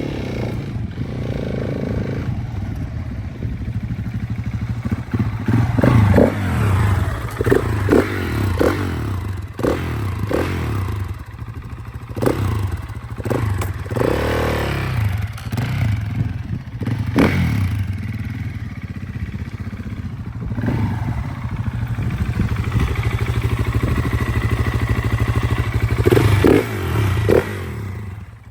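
KTM 690 Enduro R's single-cylinder four-stroke engine running as the bike is ridden, its loudness rising and falling with the throttle. Repeated clattering knocks and rattles run through it.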